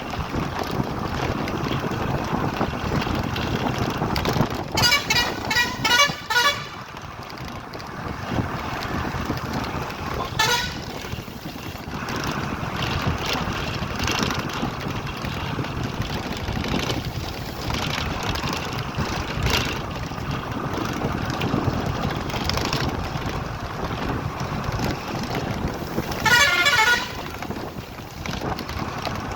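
Vehicle horns honking over a steady rushing noise: a quick run of several honks about five seconds in, a single honk about ten seconds in, and another honk near the end.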